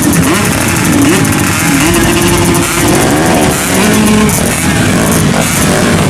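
Grasstrack racing motorcycle engines revving, with overlapping rises and falls in pitch from more than one engine.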